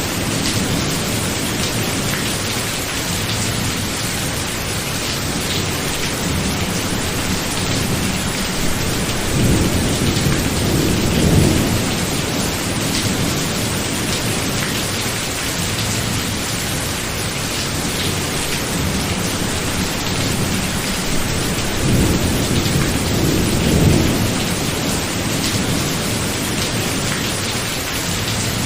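Steady heavy rain of a thunderstorm, with rolling thunder rumbling low twice: about ten seconds in and again about three-quarters of the way through.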